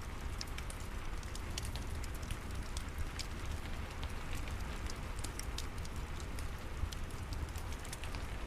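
Steady rain mixed with a crackling fireplace: a constant hiss and low rumble with many small, sharp pops and ticks scattered through it.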